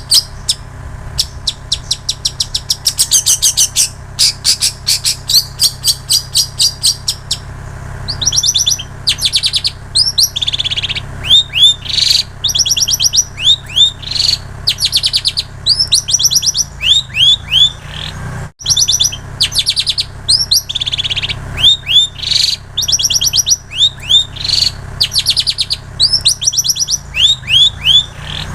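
Long-tailed shrike (cendet) singing a mimicked repertoire of plain prinia and canary song. It opens with a fast run of sharp, evenly repeated notes, then about eight seconds in switches to repeated short phrases of down-slurred whistles. A steady low hum runs underneath.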